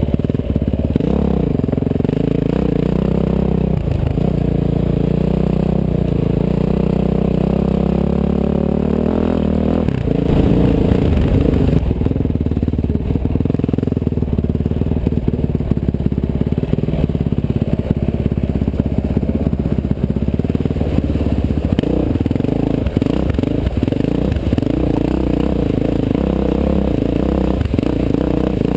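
Dirt bike engine running under load on a trail ride, its pitch rising and falling with throttle and gear changes. Near the end the bike splashes through a muddy stream crossing, with some clatter.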